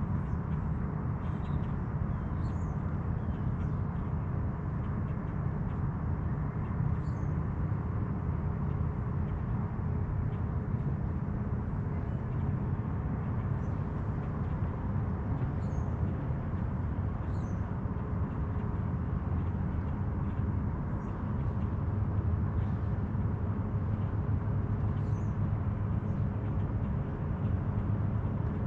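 Steady low drone of a motorboat engine with a faint constant hum, growing a little louder about three-quarters of the way through. Faint, scattered short bird chirps sound above it.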